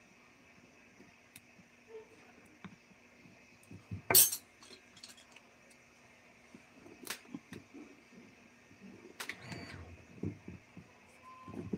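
Scattered light clicks and knocks of small hard objects being handled over a faint steady hum. The loudest is a sharp click about four seconds in, with a brief ringing after it.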